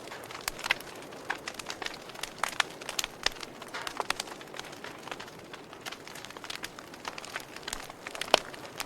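Campfire crackling: irregular sharp pops and snaps over a soft, steady hiss, with one louder pop near the end.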